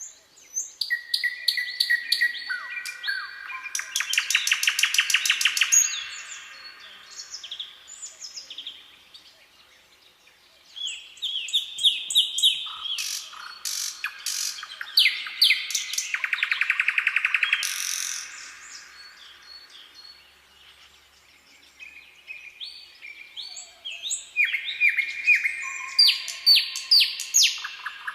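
Songbirds singing in the forest: three bursts of song about ten seconds apart, each a run of high chirping notes that runs into a fast trill.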